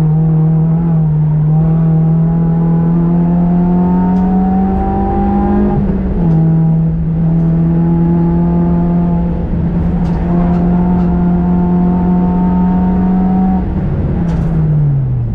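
Car engine heard from inside the cabin while being driven hard. The note climbs steadily, drops at an upshift about six seconds in and climbs again, then falls away near the end as the throttle is lifted.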